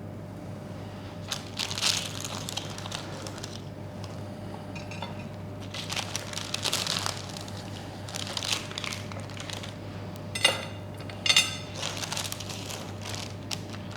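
Knife cutting through a tray of baked chocolate praline brownies, crunching and scraping through the crisp top in irregular strokes, with two sharp knocks a little under a second apart about two-thirds of the way in.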